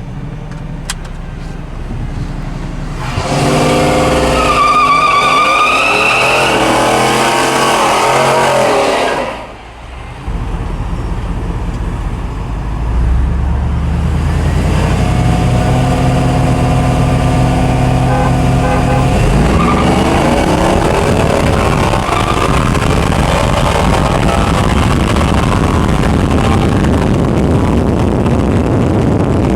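V8 engine at full throttle on a roll race run, climbing in pitch for about six seconds. It drops out briefly about ten seconds in, then pulls again and runs on under a steady rushing noise.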